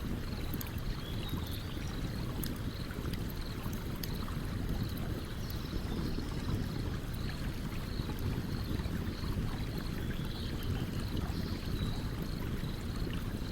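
A stream running steadily, with a campfire crackling in occasional small sharp pops over it. A faint high chirp repeats a few times a second throughout.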